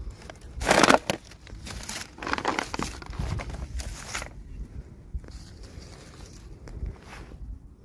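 Plastic toy packaging crinkling and tearing as it is opened, with the loudest rustle about a second in, then a run of crinkles, trailing off into light clicks and handling noises.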